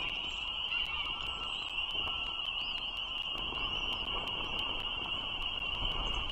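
A steady, high-pitched chorus of frogs calling without a break, over a low wind rumble, with a few faint bird chirps about halfway through.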